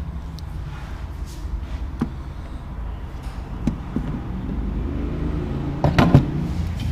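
Car engine running with a steady low rumble, a few single clicks, and a short cluster of knocks about six seconds in.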